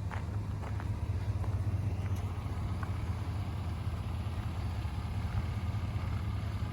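Pickup truck engine idling steadily with a low, even rumble.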